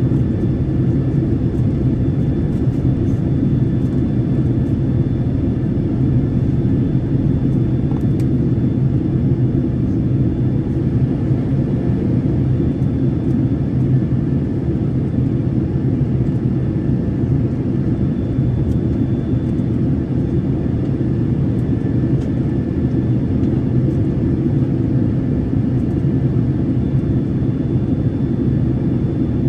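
Steady cabin noise of an airliner in flight, heard inside the cabin: a constant low rumble of engines and airflow with a faint, steady high whine above it.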